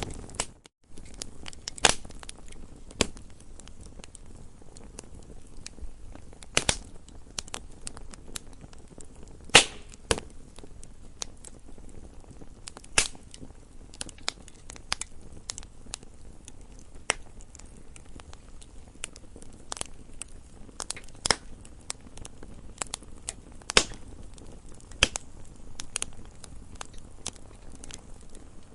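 Campfire crackling: wood burning with irregular sharp pops and snaps of varying loudness over a low, steady hiss. The sound cuts out for a moment just after the start.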